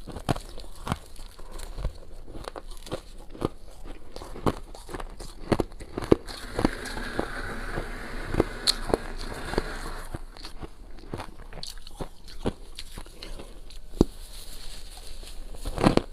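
Thin, brittle frost ice being bitten and crunched close up, a long run of sharp crackling crunches, with a denser, rougher stretch in the middle.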